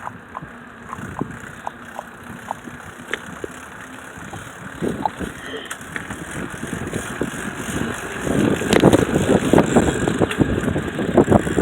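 Bicycle ride heard from the rider's handheld phone, with light regular ticking at first. About eight seconds in, a much louder rough rattling and rumbling takes over.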